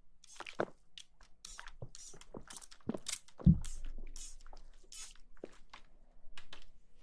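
ASMR rustling: a run of irregular, scratchy crinkling strokes, with one heavier low thump about halfway through.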